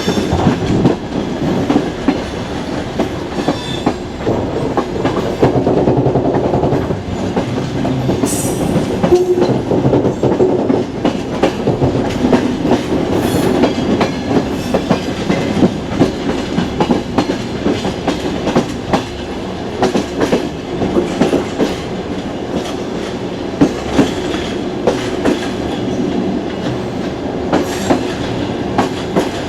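Passenger train carriage running on the rails, its wheels clicking irregularly over rail joints above a steady rumble, heard from inside the coach at the window.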